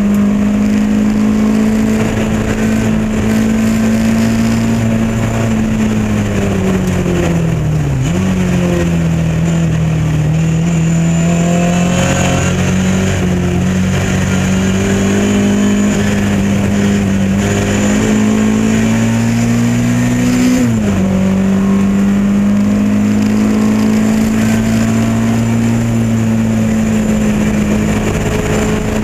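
Lotus Elan race car engine running hard at high revs, its note sagging and dipping at about 8 seconds, then climbing again before dropping sharply about 21 seconds in as it changes gear.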